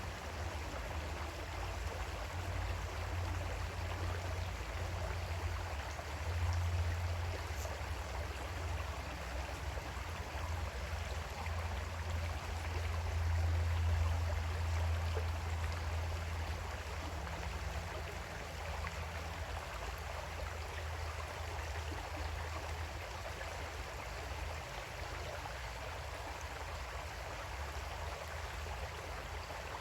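Creek water flowing steadily, an even rushing hiss. Under it runs a low rumble that swells a couple of times and eases off in the second half.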